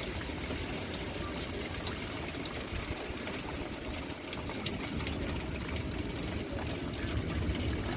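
Steady rain and gusty wind of a severe thunderstorm, with the wind rumbling unevenly on the microphone and scattered raindrop ticks over a constant hiss.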